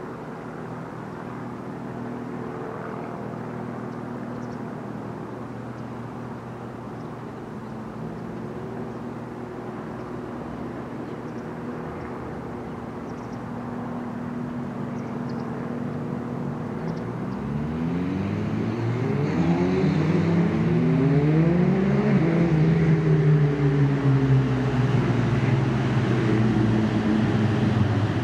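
Class 170 Turbostar diesel multiple unit approaching and pulling into the station, its diesel engines running with a steady note that grows louder as it nears. About two-thirds of the way through, several tones start sliding up and down as the train slows to a stop, and this is the loudest part.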